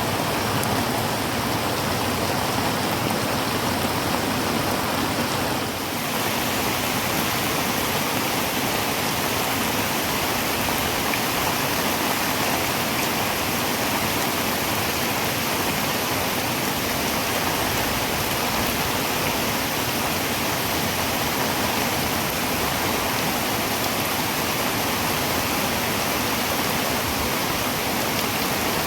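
Heavy rain pouring steadily onto a tin roof: a dense, even hiss of countless drops on the metal, with a brief slight dip in level about six seconds in.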